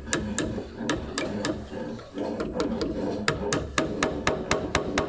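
A series of sharp hammer taps, scattered at first, then coming steadily about four a second in the second half.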